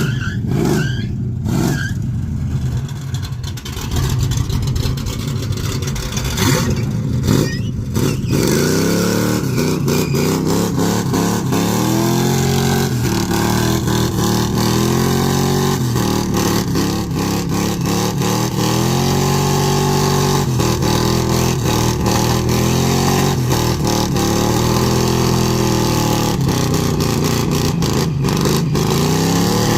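Engine revved hard in a burnout, its pitch swinging up and down in repeated surges every couple of seconds from about eight seconds in, over a steady hiss.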